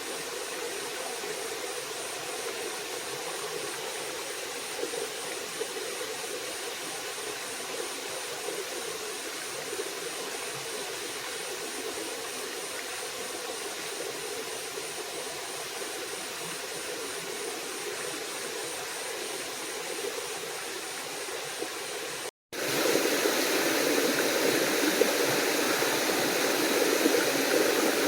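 Small forest waterfall and stream running, a steady rush of water. About 22 seconds in it cuts out for a moment and comes back louder and closer.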